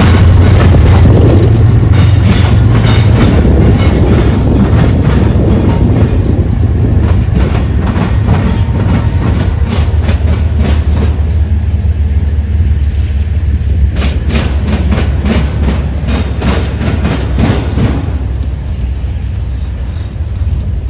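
Freight train of autorack cars rolling slowly across a rail diamond crossing, the wheels clicking and knocking irregularly over the crossing, over a steady low rumble that fades slowly towards the end.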